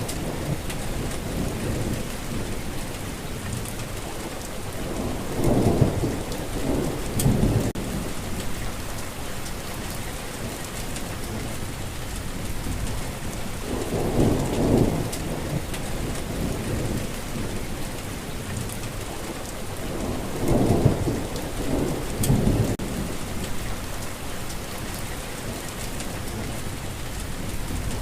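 Steady rainfall, with low rumbles swelling up and fading away four times.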